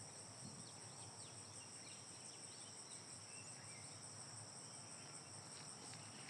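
Faint, steady high-pitched insect chirring, the kind crickets make, with a few faint bird chirps.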